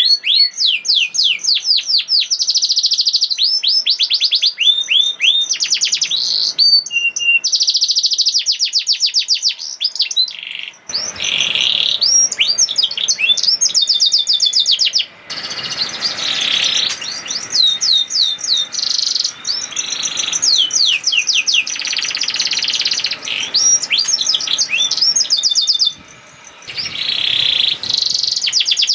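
Domestic canary singing a long, fast song of rapid trills and quickly repeated high notes, breaking off briefly twice.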